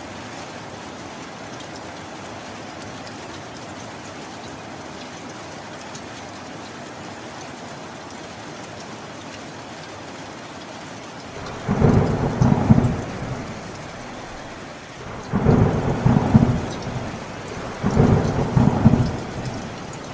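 Steady rain falling, with three loud rumbles of thunder past the halfway point, the last two close together near the end.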